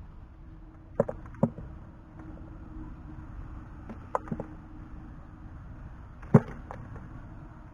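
A few sharp knocks, like a tool striking: two about a second in, two more around four seconds, and a single loud one near the end, over a steady low rumble.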